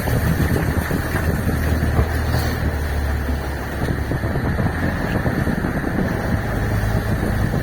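Fishing boat's engine running steadily with a low hum, under strong wind buffeting the microphone.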